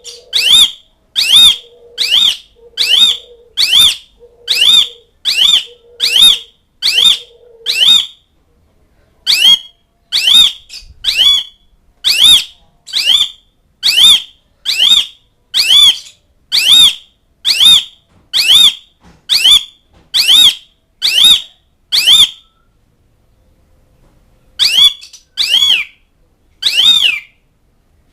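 Asian pied starling (jalak suren) calling over and over: a loud, sharp note that rises and falls in pitch, repeated about one and a half times a second. It pauses briefly about 8 seconds in and for a couple of seconds near the end. This is the call used to challenge rivals.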